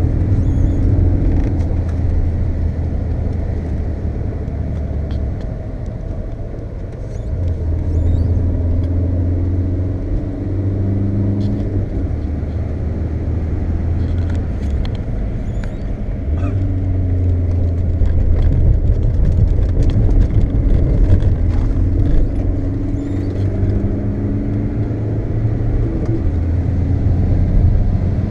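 Volkswagen Golf's engine and road noise heard from inside the cabin during fast driving, the engine drone falling off as the driver lifts and swelling again as he gets back on the throttle, several times.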